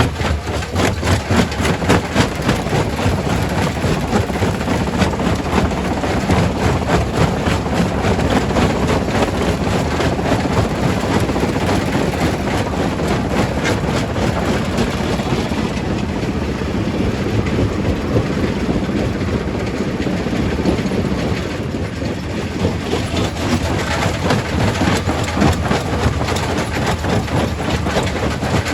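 Primary quarry rock crusher working: a dense, continuous clatter and grinding of stone over a steady heavy machine rumble. The clatter thins a little for a few seconds near the middle.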